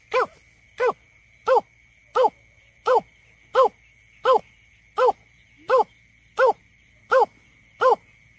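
Greater painted-snipe giving its advertising call, used as a survey lure: a steady series of about a dozen short, low hooting notes, each rising and falling slightly, repeated roughly every 0.7 s.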